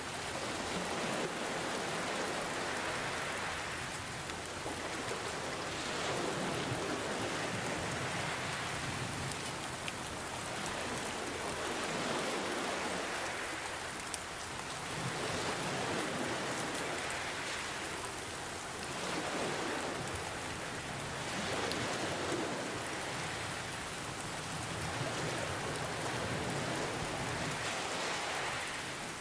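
Steady rain hissing over ocean waves that swell and wash in every three to four seconds.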